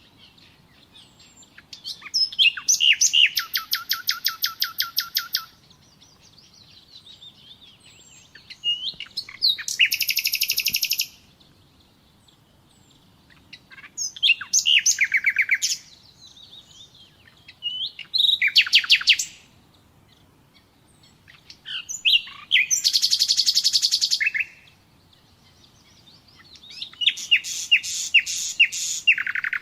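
Nightingale singing: a string of separate song phrases every few seconds, each a rapid run of repeated sharp notes, with soft quiet notes in the pauses between.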